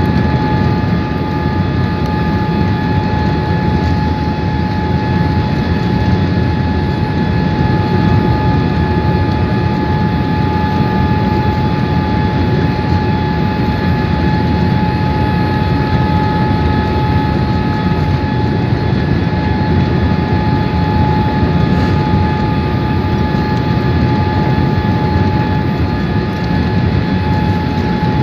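Steady cabin noise inside a Boeing 787-8 airliner on approach: a constant rumble of engines and airflow, with a steady whine on top, from its Rolls-Royce Trent 1000 turbofans.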